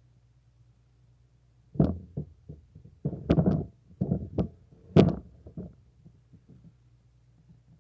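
An irregular run of about a dozen sharp knocks and thumps over roughly five seconds, loudest near the start and again about three seconds later.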